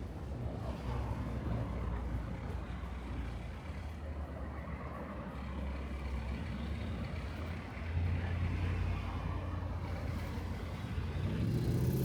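City street traffic: a vehicle engine's low, steady rumble, louder from about eight seconds in, then a rising engine note near the end as a vehicle accelerates.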